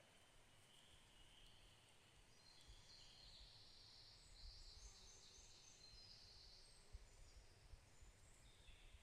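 Faint birdsong: high, fast trills from small songbirds, over a soft low rumble of wind.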